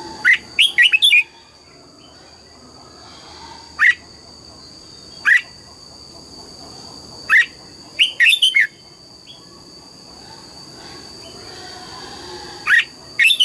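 Red-whiskered bulbul singing: short, loud phrases of quick whistled notes, some single and some in tight runs of three or four, repeated every few seconds.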